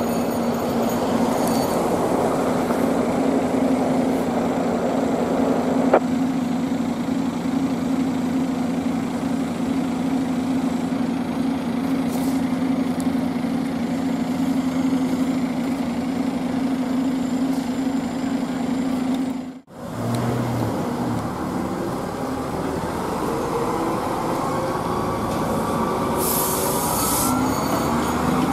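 FDNY fire engine running steadily with a loud low hum. After a brief dropout about two-thirds through, a whine rises slowly in pitch over several seconds as the rig moves out.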